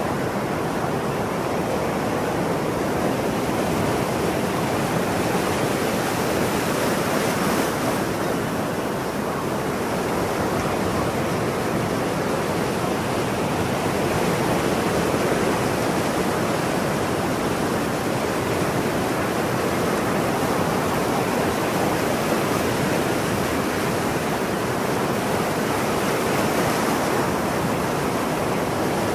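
Ocean surf: a steady, continuous wash of breaking waves, with no gull calls standing out.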